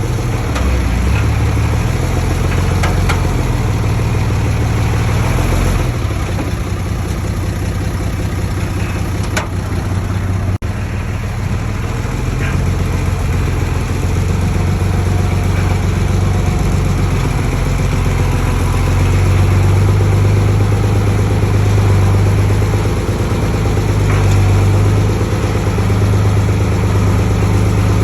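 Heavy construction machinery's diesel engine running steadily, a little louder in the second half, with a few faint clicks.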